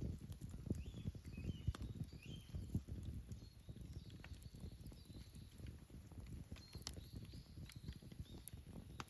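Wood campfire burning: a low rumble of flames under frequent, irregular crackles, with a few sharper pops.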